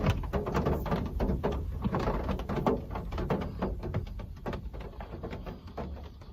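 Rain falling, heard as many separate drops ticking irregularly on a surface, fading out gradually.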